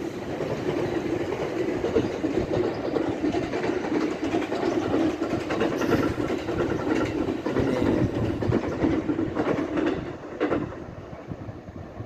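Electric train passing along the line, wheels clacking over the rail joints with a steady rumble that fades away after about ten seconds, with one sharp click just after.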